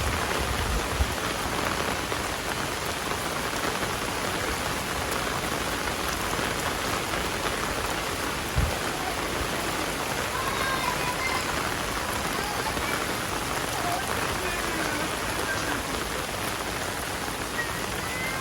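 Heavy rain falling in a dense, steady hiss. A low rumble fades out in the first second, and a single low thump comes about eight and a half seconds in.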